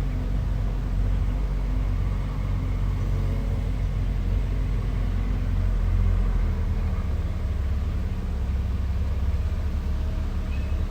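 Bulldozer's diesel engine running with a steady low note.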